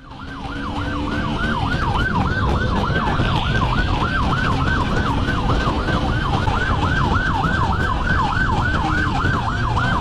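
Police siren in fast yelp mode, sweeping up and down about three or four times a second, over loud road and engine noise from the pursuit.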